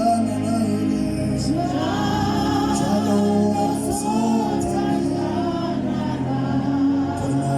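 A gospel hymn sung in isiZulu, voices over a steady instrumental backing of held notes.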